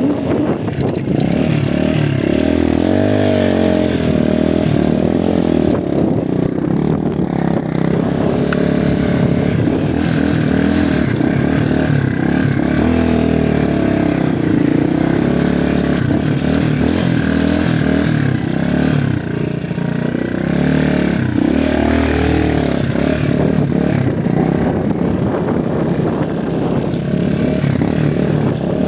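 Honda motorcycle engine running under way. Its note rises and falls repeatedly as the throttle opens and closes through the ride.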